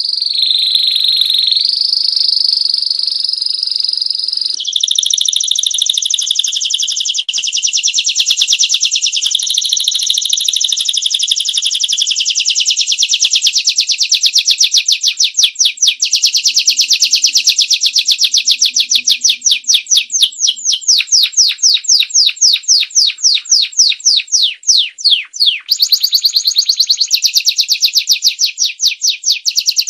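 Domestic canary singing a long, loud, unbroken song: it starts abruptly with a few held whistled notes, then runs into long rolling trills of fast repeated notes, several a second.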